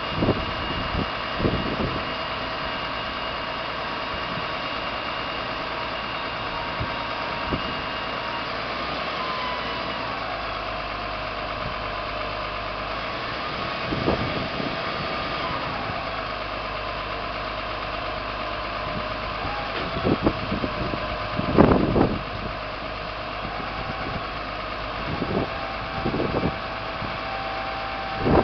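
Claw truck's engine running steadily. Its pitch rises and falls for a few seconds around the middle as the grapple works, and a few short thumps come through, the loudest about two-thirds of the way in.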